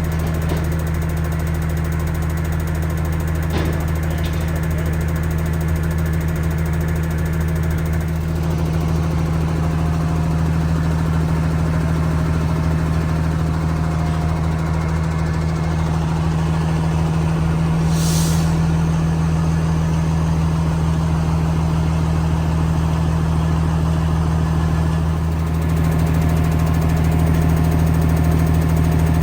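A large engine running steadily at constant speed, with a deep, even hum. A short hiss comes about eighteen seconds in, and the engine note shifts slightly near the end.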